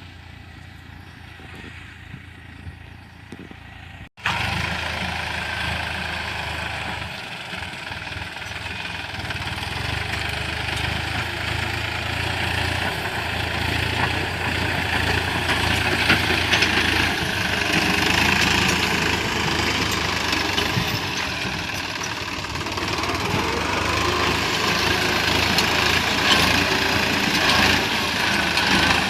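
New Holland tractor's 49-horsepower, 2,700 cc diesel engine running steadily while ploughing with a disc plough. An abrupt cut about four seconds in makes the engine much louder from there on.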